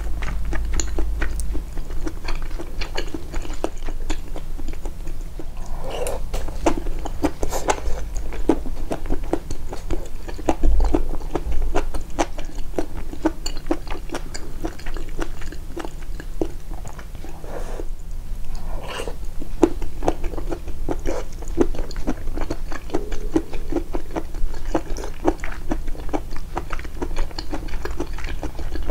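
Close-miked, amplified chewing: a person chewing a mouthful of food, a steady run of quick clicking mouth sounds, with a few louder moments along the way.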